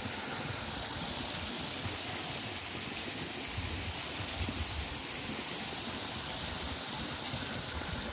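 A small creek running across the road and spilling into a little waterfall: a steady rush of water, with a low rumble coming and going underneath.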